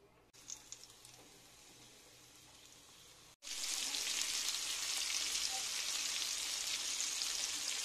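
Quiet for about the first three seconds, then, after a sudden cut, hot oil sizzling steadily around flour-coated pork pieces shallow-frying in a pan.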